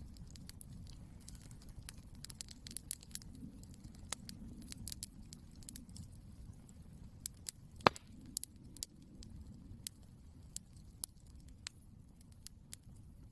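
Wood campfire crackling: irregular sharp pops and snaps, with one loud pop about eight seconds in, over a low steady rumble.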